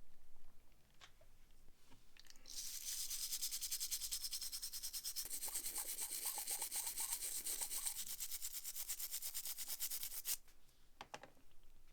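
Rapid, even back-and-forth scrubbing on a small metal lighter part. It starts about two and a half seconds in, runs for nearly eight seconds and stops abruptly, with a few light clicks before and after.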